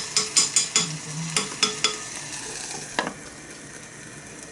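Kimchi hot pot sizzling in a small iron pot while being stirred, with a quick run of clinks against the pot in the first two seconds and one more about three seconds in. The sizzle fades after the middle.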